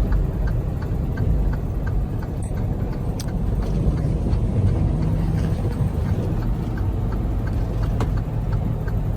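Semi-truck engine and road noise heard from inside the cab while driving: a steady low rumble, with faint light ticks and rattles over it.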